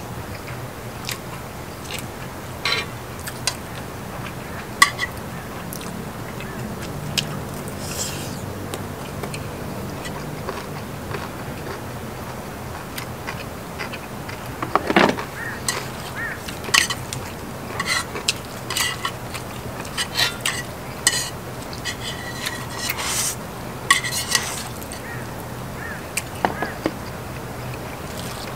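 Close-up eating sounds: chopsticks and cutlery clicking against dishes, with the chewing and slurping of stir-fried noodles and lettuce wraps. The clicks and mouth noises come thick and fast in the second half.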